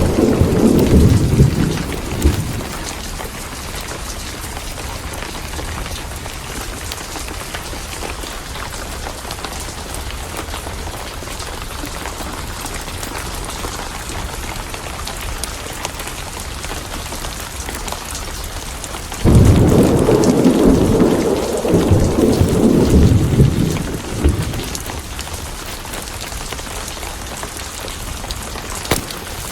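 Steady heavy rain with thunder: a rumble dies away in the first couple of seconds, then a second clap breaks in suddenly about two-thirds of the way through and rumbles on for about five seconds before fading back to the rain.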